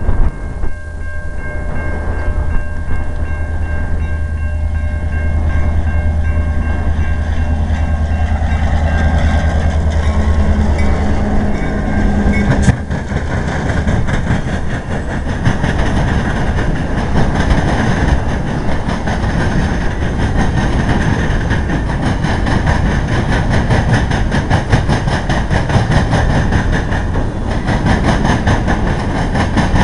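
Diesel freight train. A steady low locomotive rumble comes first. After a sudden break a little before halfway, freight cars roll past with a loud, even rattle and clickety-clack over the rail joints.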